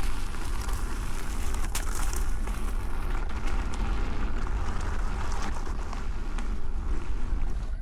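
Wind rumbling on the action camera's microphone while riding an electric unicycle along a dirt trail, with scattered clicks and crackles from the ride.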